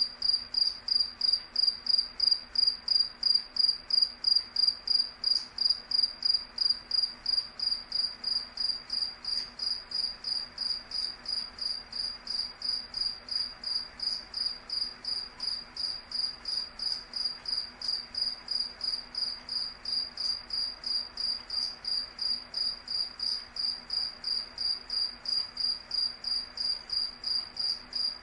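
A cricket chirping steadily: one high-pitched chirp repeated evenly, about three times a second.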